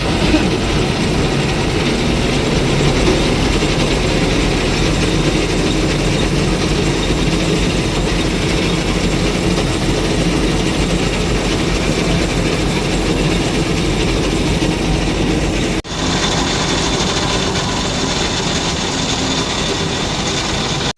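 Heavy recovery machinery running hard with a continuous mechanical clatter as it hauls the truck out of the river. The sound breaks off for an instant about sixteen seconds in, then carries on.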